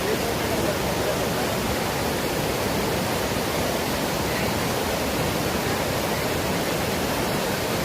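A waterfall's water falling fast and heavily, making a steady, even rush of noise.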